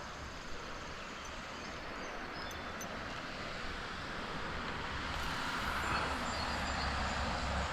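Steady rushing noise of the creek and falling rain, with a low wind rumble on the microphone that builds up from about five seconds in.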